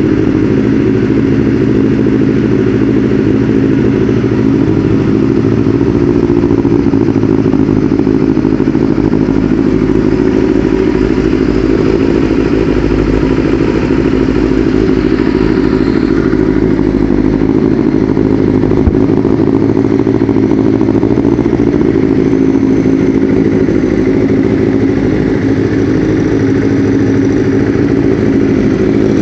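Kawasaki ZXR inline-four motorcycle engine running steadily through a GP-style aftermarket exhaust.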